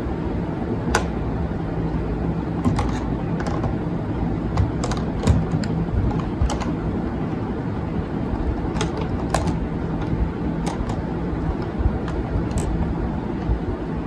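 Scattered light clicks and taps of makeup items and plastic parts being handled and set into a makeup organizer, irregular and a second or so apart, over a steady low background rumble.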